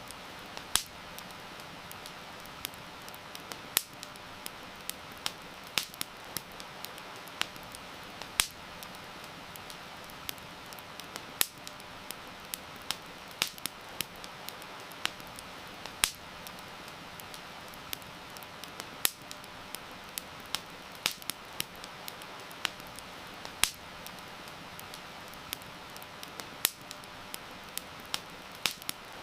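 Wood fire crackling, with sharp pops at irregular intervals, over a steady hiss of heavy rain.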